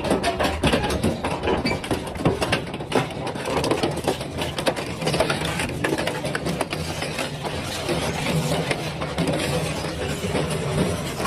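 Double-shaft shredder running under load, its blades crunching and cracking through material in a dense run of sharp snaps over a steady low motor hum.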